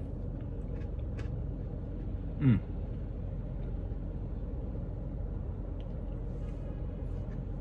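Steady low rumble inside a parked car, with a few faint clicks. About two and a half seconds in, one short falling "mm" hum from a man taking his first taste of ice cream.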